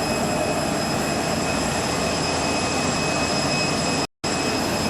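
Steady jet aircraft noise: a loud, even roar with faint high steady tones above it. It cuts out completely for a moment about four seconds in.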